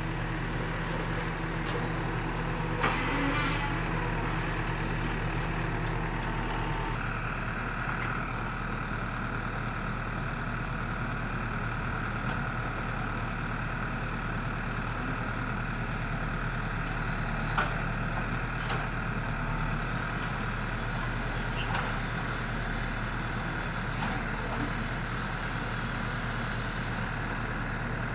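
ACE AX124 backhoe loader's diesel engine running steadily, with a higher whine joining about a quarter of the way in and a few brief knocks.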